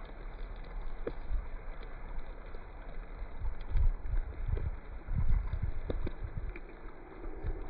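Wind buffeting the phone's microphone in irregular low gusts, strongest about four to six seconds in, over a steady hiss, with scattered light ticks.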